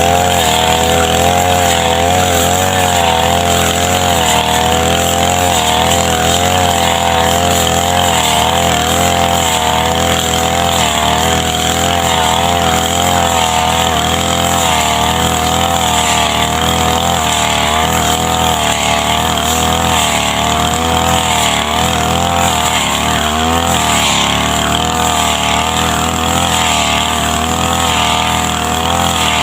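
Brush cutter engine running steadily at high speed, its pitch wavering a little as the load changes while cutting grass.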